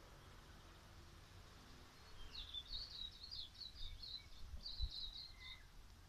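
Faint outdoor ambience with a songbird singing a quick twittering phrase of short, high chirps, starting about two seconds in and lasting about three seconds.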